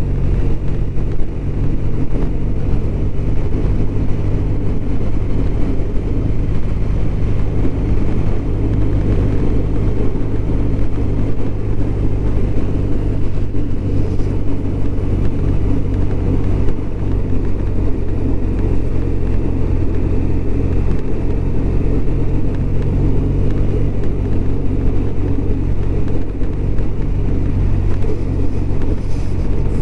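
BMW R1200RT's boxer-twin engine running steadily under way, with a constant rush of wind and road noise; the pitch and level hardly change.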